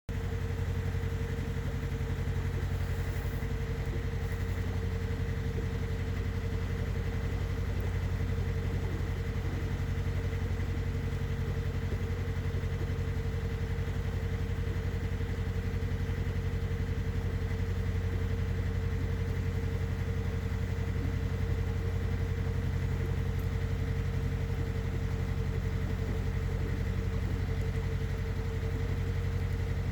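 Narrowboat engine running steadily at low revs: a constant low drone with an unchanging higher tone over it.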